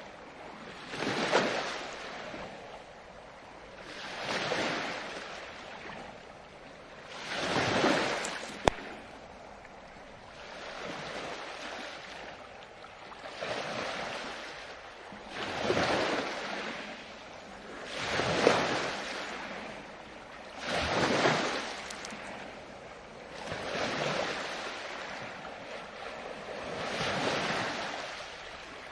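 Ocean surf: waves break and wash in one after another, about one every three seconds, each a rising and falling rush of water. There is one sharp click about nine seconds in.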